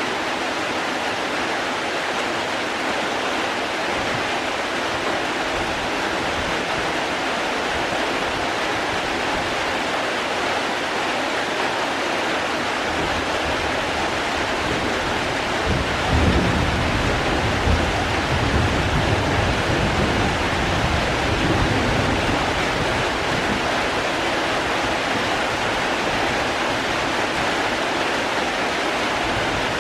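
Steady hiss of rain falling. About halfway through, a low rumble swells for several seconds and then fades back under the rain.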